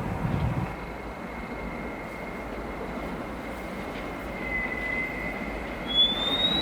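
Train running along the tracks, a steady rail noise with a thin high whine held throughout. There is a low thump at the start and a short rising whine near the end.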